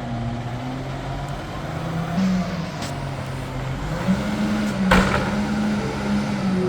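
Diesel engine of a Peterbilt McNeilus front-loader garbage truck running and revving up in two steps, about two and four seconds in, as the loader's hydraulics work. A single sharp knock comes near the five-second mark.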